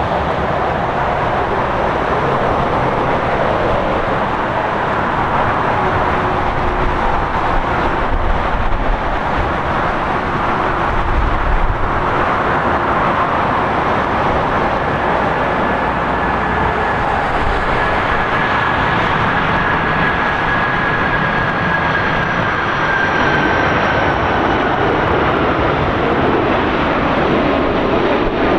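Jet airliner's engines: a loud, steady rush of noise. In the second half a high whine slowly falls in pitch as the aircraft passes.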